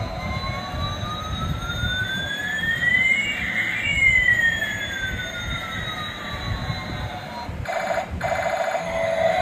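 Battery-operated toy fighter jet's electronic sound effect: a rising tone and a falling tone glide past each other over about seven seconds, with a low rumble underneath. Near the end a different pulsing electronic sound takes over.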